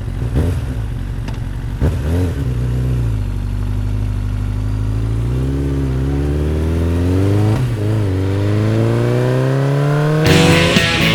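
Motorcycle engine revving a couple of times, then accelerating with its pitch climbing steadily, dropping once at a gear change about seven and a half seconds in and climbing again. A strummed electric guitar comes in near the end.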